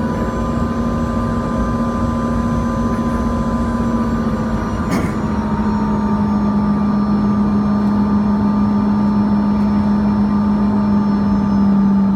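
Cabin noise inside a Bombardier CRJ-200 in flight: the steady rush and hum of its rear-mounted GE CF34 turbofans, with a low drone and a higher whine. A sharp click comes about five seconds in, and after it the engine tones settle slightly lower in pitch.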